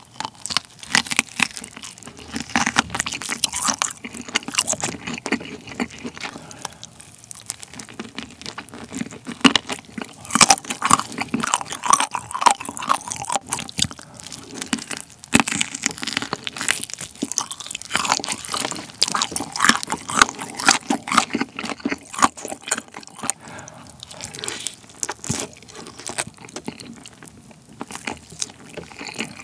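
Close-miked biting and chewing of a sauce-coated fried chicken drumstick: irregular crunching of the crust and chewing, as the meat is pulled off the bone.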